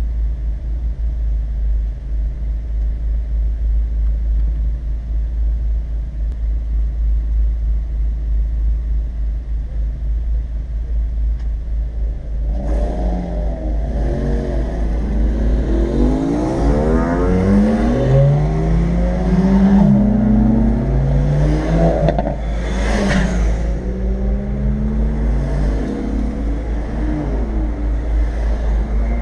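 Car engines heard from inside a stationary car's cabin: a steady low idle drone throughout, joined about halfway through by other cars' engines revving up and down and rolling close by, loudest about three-quarters of the way through.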